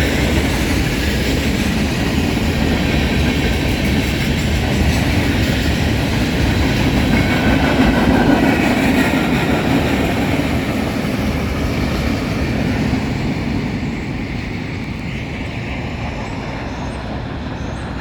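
A CSX freight train's cars rolling past on the rails: a steady rumble of wheels with clickety-clack over the rail joints, easing off after about thirteen seconds.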